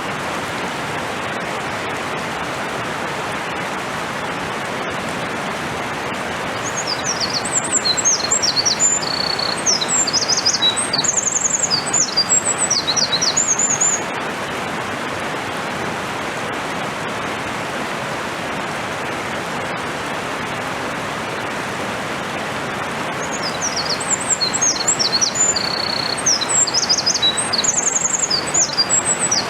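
Eurasian wren singing two long, rapid songs of high trills and sharp notes, one starting about six seconds in and another near the end. Under them runs the steady rush of a mountain stream.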